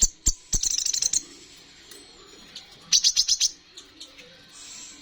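Kolibri ninja (van Hasselt's sunbird) singing: two bursts of rapid, high-pitched twittering, one about half a second in and another about three seconds in, with a few sharp clicks near the start.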